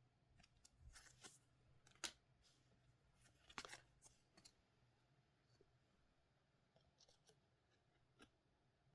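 Faint handling of trading card packs and cards: soft crinkles and clicks, the sharpest about two seconds in, a longer rustle around three and a half seconds, then a few scattered light ticks.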